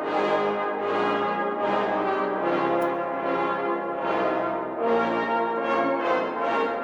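Brass band playing slow music in sustained chords.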